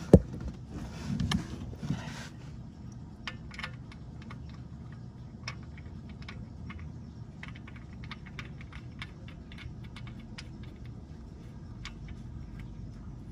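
Small metal tools and the oil drain plug being handled and fitted back into the oil pan: a couple of knocks in the first two seconds, then light, irregular clicks and ticks.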